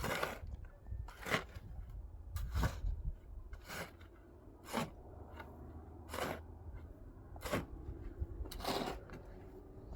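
Regular scraping strokes, about eight of them, roughly one every one and a quarter seconds.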